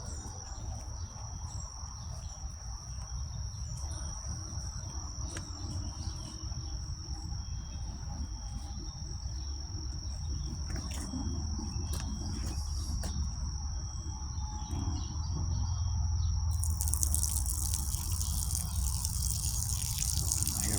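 Insects trilling: one steady high-pitched tone over a low rumble. About three-quarters of the way through, a steady high hiss sets in suddenly and replaces the trill.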